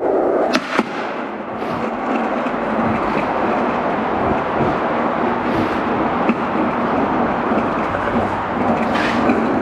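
Skateboard wheels rolling over pavement, a steady rolling noise, with two sharp knocks of the board about half a second in and another brief knock near the end.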